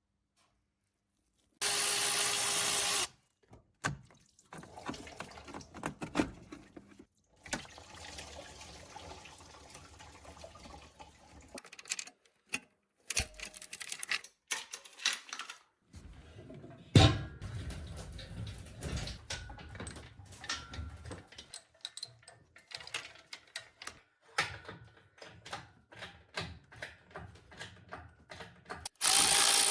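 Engine teardown work: a short burst of a power tool, then many irregular clinks, knocks and clatter of tools and parts being handled, and the power tool starting again near the end.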